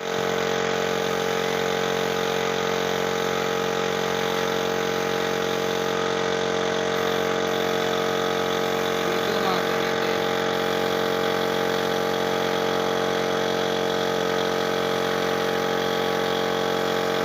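A machine running steadily at one constant speed: an even hum with many overtones that does not change.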